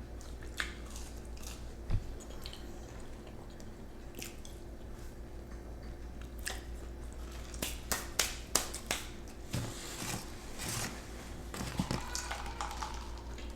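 Chewing and biting into spicy chicken nuggets, with scattered wet smacks and crunches, most of them about eight to nine seconds in, over a steady low hum.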